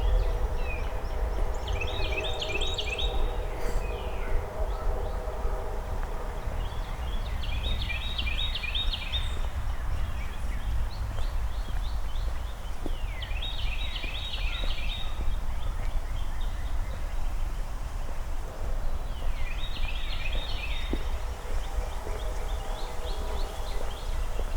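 A songbird singing short phrases of quick repeated notes, one phrase about every six seconds, over a steady low outdoor rumble. A steady droning hum is heard in the first several seconds and comes back near the end.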